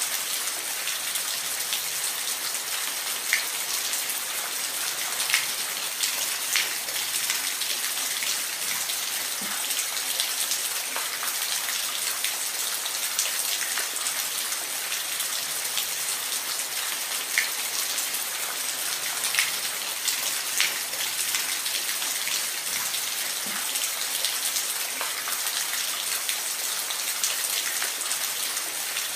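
Steady rain falling, an even hiss with individual drops ticking sharply on a surface every second or so.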